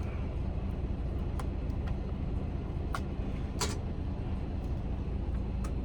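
Steady low rumble of an idling semi-truck, with a few short clicks and taps of a spoon against the pot as butter is scooped in, the clearest about three seconds in and again just after.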